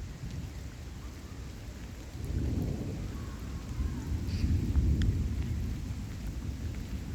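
Thunder rumbling over steady rain. The deep rumble swells about two seconds in, is loudest around the middle, then slowly dies away.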